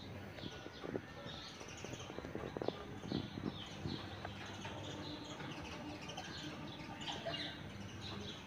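Birds chirping: many short, high calls overlapping throughout, with a few soft knocks in the first half.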